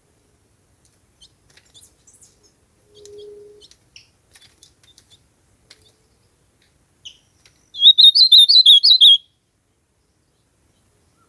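Ultramarine grosbeak (azulão) singing: faint scattered chirps, then about eight seconds in one loud, fast warbled phrase lasting about a second and a half. A short low steady tone sounds briefly about three seconds in.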